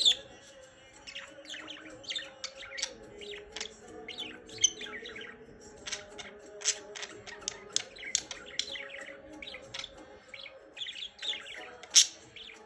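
Pet budgerigars chirping and chattering in quick, busy runs of short high notes, with a sharp, louder call right at the start and another about twelve seconds in.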